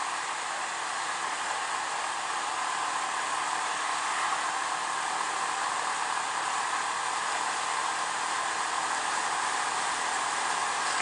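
Steady rushing wind and road noise from a Honda PCX scooter riding along, picked up by its onboard camera.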